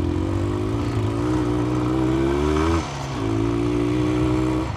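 1982 Cagiva SX 350 single-cylinder motorcycle engine running under way, its pitch rising slowly as it pulls. Near three seconds it drops off briefly, as when the throttle is closed or a gear is changed, then it picks up and runs steadily again.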